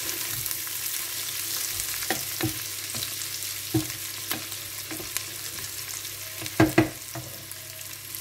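Chicken, onion and vegetables sizzling in oil in a stone-coated pot, the onion softening, while a wooden spatula stirs them with short scrapes and knocks against the pot. Two louder knocks come close together about six and a half seconds in.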